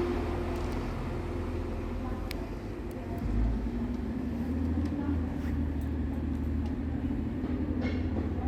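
A train at a station with its engine running: a steady low rumble and hum, with a few faint clicks.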